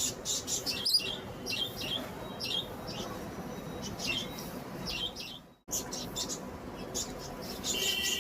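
Pet lovebirds chirping, with short high chirps repeating in quick runs. The sound breaks off briefly about five and a half seconds in, and a steady high tone comes in near the end.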